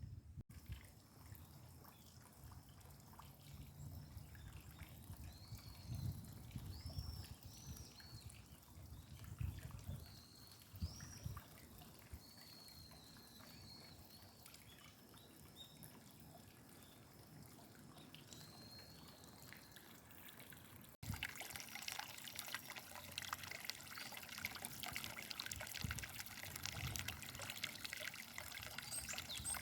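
Small birds chirping in short calls that glide up and down, over a low irregular rumble. About two-thirds of the way through, an abrupt cut gives way to steady trickling water.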